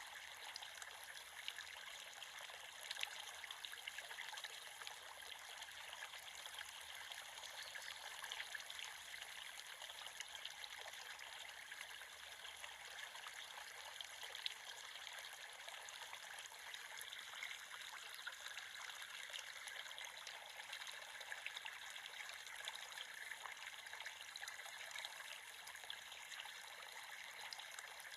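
A small creek trickling and babbling over stones, a steady fine splashing with nothing deep in it.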